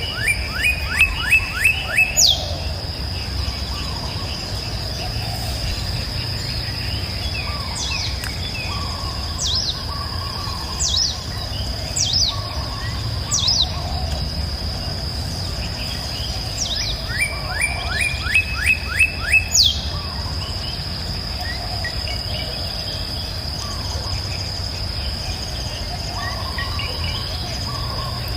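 Songbirds singing over a steady high insect drone. A bird gives two rapid phrases of about eight quick notes, one at the start and one about two-thirds through, with single down-slurred whistles between them. A low, steady rush of background noise runs beneath.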